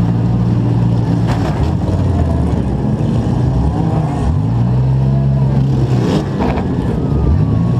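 Demolition derby compact car's engine revving up and down under load as it drives through the mud, with a few sharp bangs of cars colliding about a second and a half in and near the end.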